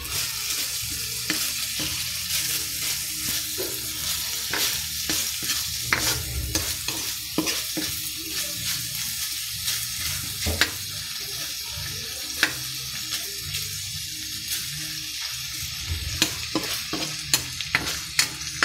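Pork sautéing in garlic and onion, sizzling steadily in a pan, while a spatula stirs it, scraping and knocking against the pan now and then and more often near the end.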